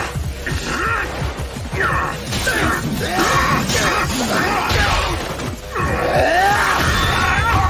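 Animated fight sound effects: a rapid series of hits, crashes and scraping metallic whooshes over a dramatic music score.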